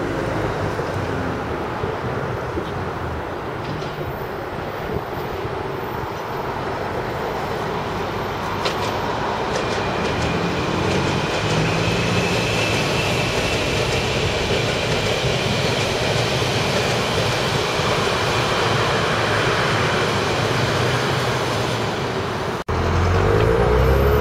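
London Underground S-stock train approaching and running past close by, a steady rumble of wheels on track that swells as it nears, with a thin high whine while it is closest. Near the end the sound cuts abruptly to a louder, deeper rumble.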